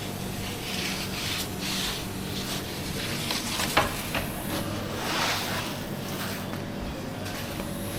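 Hands working food in a kitchen: repeated rubbing and scraping swishes, with one sharp click a little under four seconds in, over a steady low hum.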